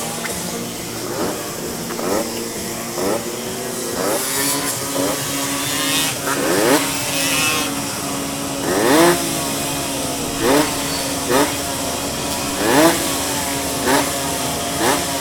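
Car engines revving in short rising bursts, roughly one every second or so, over a steady engine drone.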